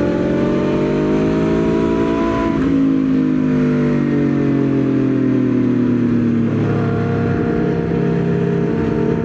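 Aprilia Tuono V4 motorcycle's V4 engine under way on track. It rises in pitch for about two and a half seconds, then falls gradually for about four seconds, then holds steady.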